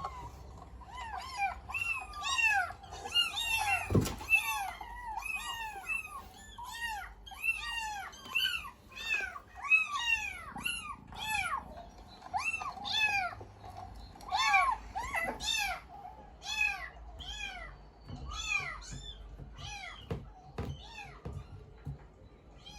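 Cat meows repeated over and over, about two short meows a second, each rising and then falling in pitch, with a single knock about four seconds in.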